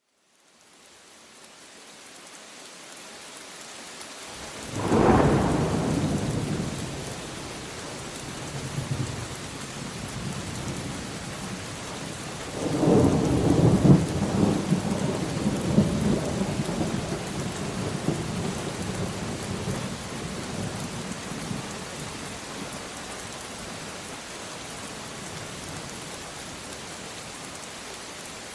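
Steady rain, fading in at the start, with two peals of thunder: a sudden clap about five seconds in that rolls away over a few seconds, and a longer rolling peal from about thirteen seconds that dies out by about twenty-two seconds.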